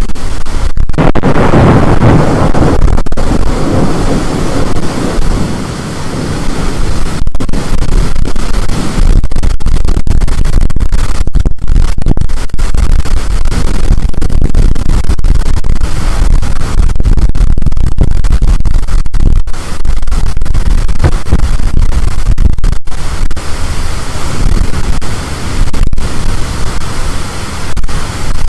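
High storm wind with rain blasting against the microphone, a loud continuous rush with a heavier surge in the first few seconds.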